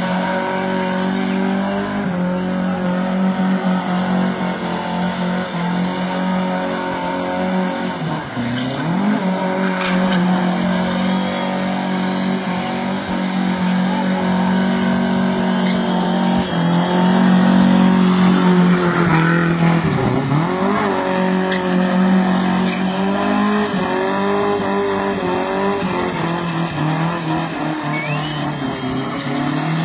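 A boxy Toyota's engine is held at high revs while its spinning rear tyres squeal and skid on the tarmac as the car spins doughnuts. The revs drop sharply and climb back twice, about eight seconds in and again about twenty seconds in.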